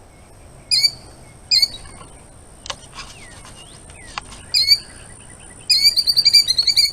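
Killdeer giving sharp, high alarm calls to defend its nest: three single calls spaced apart, then a rapid run of calls near the end.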